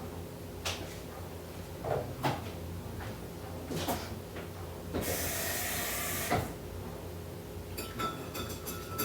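Coffee being made at an espresso machine: a few clicks and knocks of handling, a hiss lasting about a second and a half about five seconds in, then a rhythmic pulsing machine sound with a steady whine that starts near the end.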